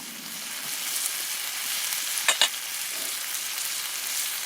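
Food sizzling on a charcoal grill: a steady hiss that builds over the first second, with two sharp clicks a moment apart about two and a half seconds in.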